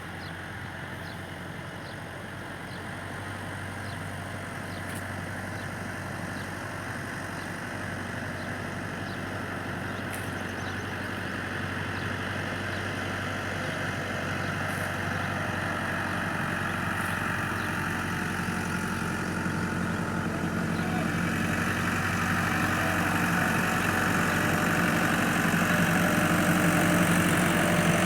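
Tractor engine running steadily, growing gradually louder.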